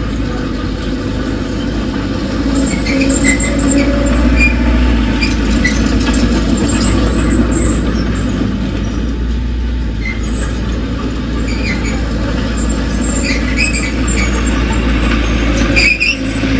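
Bulldozer working with its diesel engine running steadily, and short high squeals dotted through it, typical of steel crawler tracks.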